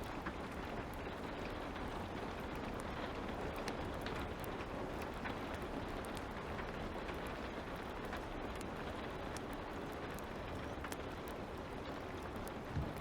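Steady light rain with the scattered small pops and crackles of a wood fire.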